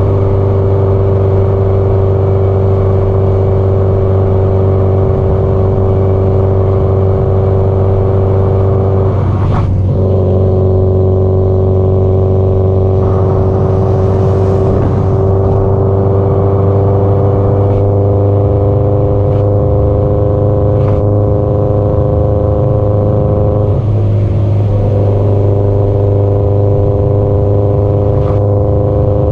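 Subaru Impreza WRX STI (GDB-E) turbocharged 2.0-litre flat-four engine and exhaust droning steadily at expressway cruising speed. The note shifts twice, about a third of the way in and again past the three-quarter mark.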